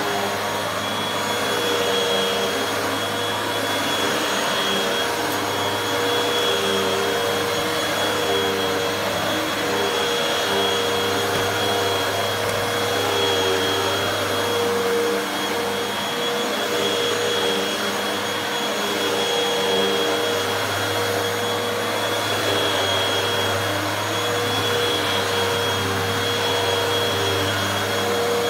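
Hoover WindTunnel 2 upright vacuum cleaner running steadily while vacuuming, a steady whine over the rush of air.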